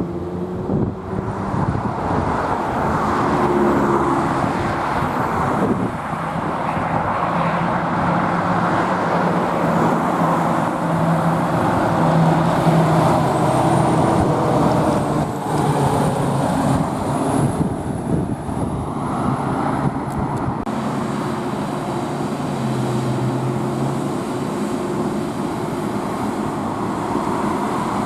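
Road traffic with trucks driving past: a continuous rush of tyre and engine noise, with the hum of truck engines changing pitch as vehicles come and go.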